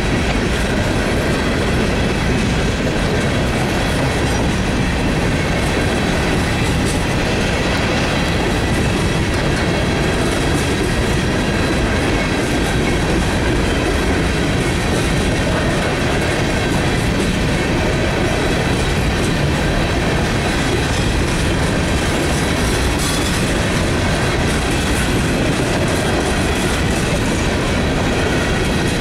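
Freight cars of a loaded coal train rolling steadily past at close range: continuous steel-wheel-on-rail noise, with a faint steady high ringing over it.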